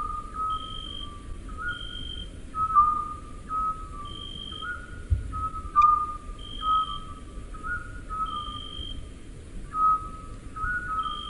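Owl call: a steady run of short whistled notes at about one pitch, some stepping slightly up or down, with a brief higher whistle every second or two.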